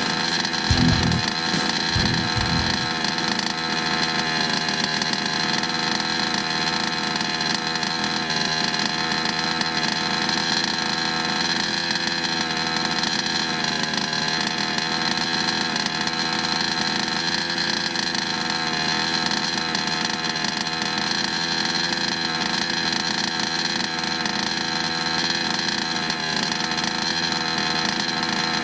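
King Motor Blade's 34cc two-stroke engine running at a steady idle during its first heat-cycle break-in run, its pitch wavering only slightly. A few low thumps come in the first couple of seconds.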